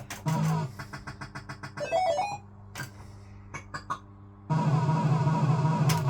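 Barcrest MPU3 Autoroute fruit machine's electronic sound effects: bleeping note runs and rapid ticking, a few sharp clicks, then a loud steady buzzing tune with beeps starting about four and a half seconds in.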